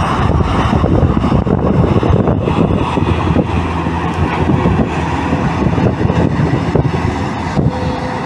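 Hydraulic excavator's diesel engine running steadily, with scattered knocks and clatter from the machine working.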